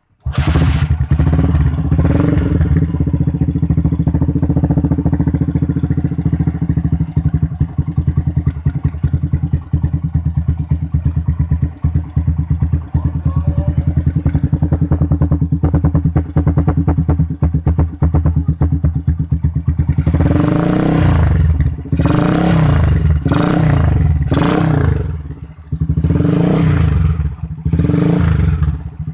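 Motorcycle engine through an aftermarket round stainless-steel BRS silencer, packed with white glass wool and a full baffle, idling steadily with an even pulse. About two-thirds of the way in the throttle is blipped over and over, the exhaust note rising and falling with each rev.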